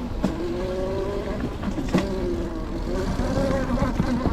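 Electric dirt bike's motor whining, its pitch rising and falling with the throttle, with a sharp knock about two seconds in.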